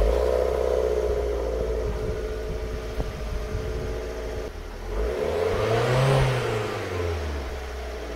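Jeep Renegade engine with the stock muffler still on, heard from under the rear of the car, idling just after starting. About five seconds in it is revved once, the pitch rising and falling, then it settles back to idle.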